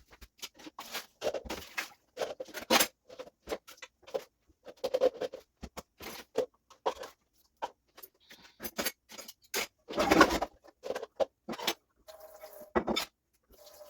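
Dishes clinking and clattering as a dishwasher is loaded: a steady run of short, sharp knocks, with a louder clatter about two-thirds of the way through.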